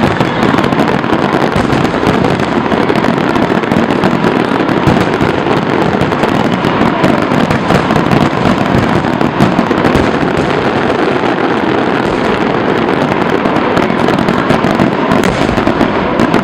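Fireworks going off in a dense barrage, a continuous crackle of many rapid bangs and pops with no gaps.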